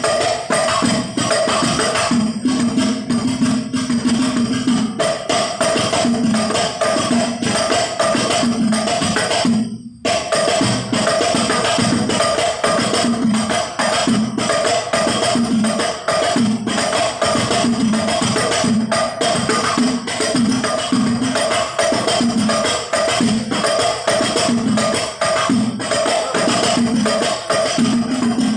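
Al Banjari ensemble of hand-struck rebana frame drums playing a fast, busy rhythm with jingle-like accents. The playing stops briefly just under ten seconds in and then picks up again.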